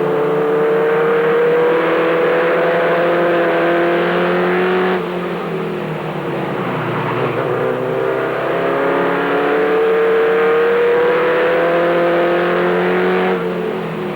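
Race truck's engine heard from inside the cab under racing load, its pitch climbing steadily, then dropping suddenly about five seconds in; it climbs again and drops once more near the end.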